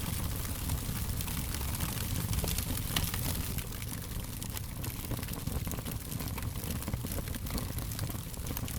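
Wood fire crackling: a steady low rumble and hiss of burning with frequent sharp pops and snaps scattered irregularly throughout.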